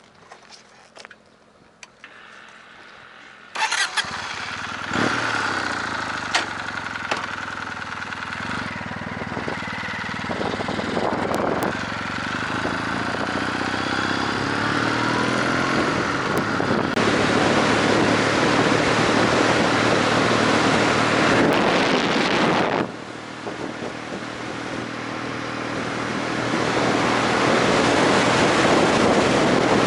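Motorcycle engine starting about three and a half seconds in, then running steadily, growing louder later on with a short dip partway through.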